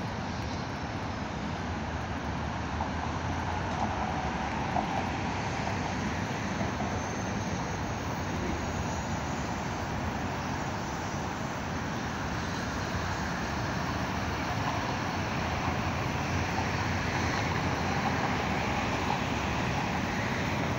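Steady rumble of an approaching Metra commuter train mixed with distant road traffic, growing slightly louder toward the end.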